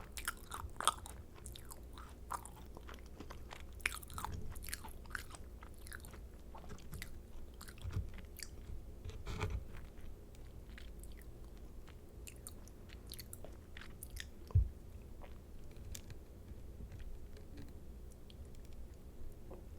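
A person chewing macarons: crisp crackles of the shell and soft, moist chewing. The crackles come thick and fast in the first half and thin out later, with a few dull low thumps along the way.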